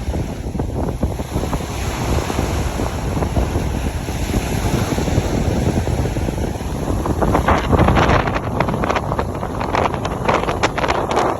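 Wind buffeting the microphone, with ocean surf washing in. About seven seconds in it grows louder and hissier.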